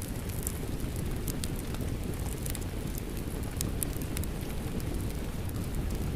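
Rain and a crackling fireplace fire blended together: a steady low rumble with many sharp crackles and ticks scattered through it.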